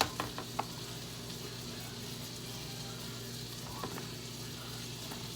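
Tortilla frying in butter in a hot pan, sizzling steadily, with a few light clicks near the start.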